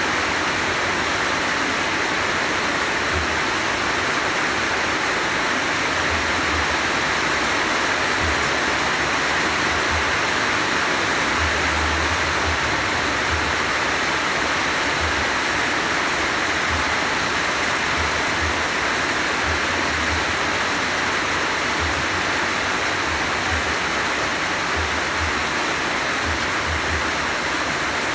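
Heavy rain falling steadily, a dense even hiss with occasional low thuds mixed in.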